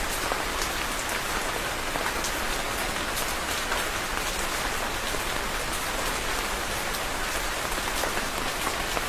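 Steady rain falling and pattering on a surface, an even hiss with scattered sharp ticks of individual drops.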